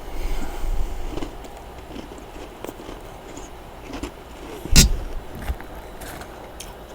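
Freezer frost crunching close to the microphone, with scattered small crackles and one sharp loud click about five seconds in.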